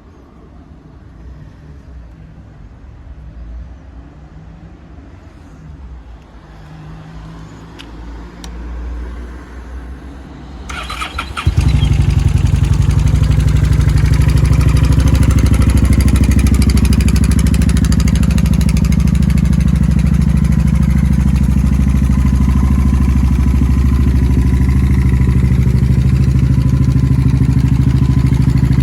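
Honda Shadow Spirit VT750C2 V-twin engine cold-started. After about ten seconds of faint low rumble and a couple of clicks, the starter cranks briefly and the engine catches about eleven seconds in, then runs steadily.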